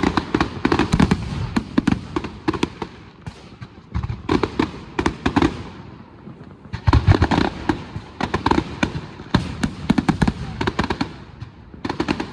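Firework display going off in rapid volleys of bangs and crackles, coming in several bursts with short lulls between them.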